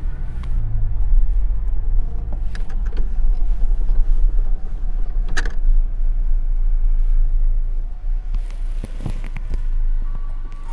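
Low, steady engine and road rumble inside a truck's cab while driving, with a few sharp clicks or knocks.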